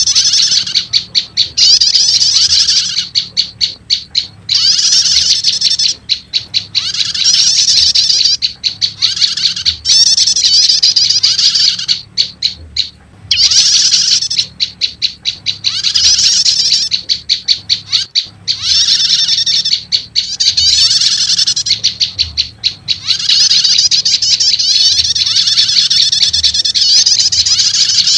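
Recorded prenjak lumut calls looped as a bird-trapping lure: loud, rapid, high chattering chirps in runs of a few seconds with short breaks between them.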